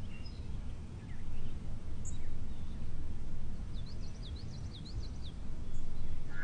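Outdoor ambience: a steady low rumble with distant small birds chirping faintly, and a quick run of about ten short high chirps about four seconds in.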